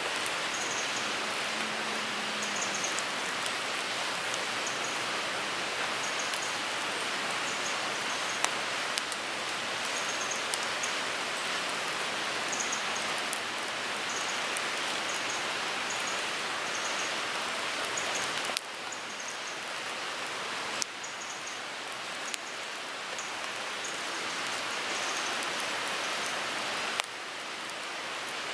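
Wood fire burning in a Picogrill 398 folding fire pit: a steady hiss with scattered sharp crackles and pops. The hiss drops suddenly twice, about two-thirds of the way through and again near the end.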